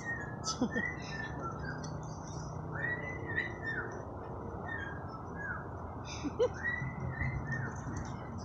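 A parrot whistling a tune: a run of short whistled notes, each rising and falling in pitch, with brief pauses between phrases.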